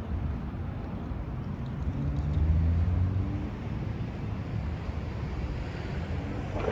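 Road traffic: a vehicle's engine accelerating past, its note rising and loudest about two to three seconds in, over a steady low rumble.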